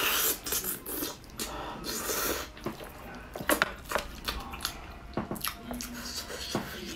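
Close, wet mouth sounds of eating braised pig's trotter: chewing and sucking on the gelatinous skin, with squelches and a few sharp lip-smack clicks.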